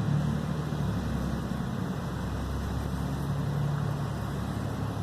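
Steady low rumble of a running engine, with a wavering hum that rises and falls slightly in pitch.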